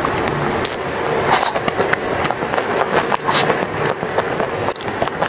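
Close-up chewing and biting of a chocolate-coated ice cream bar with nuts: the crackle and crunch of the chocolate shell and nuts, with louder crunches about a second and a half in and again just past three seconds.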